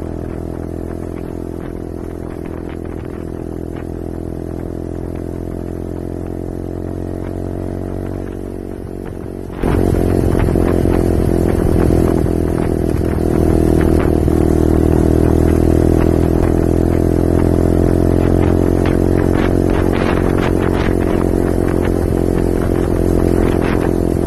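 LXR 125cc motorcycle engine running at a steady, even note. About ten seconds in, the sound suddenly gets much louder, with wind rush and scattered knocks added, and the engine note slowly climbs.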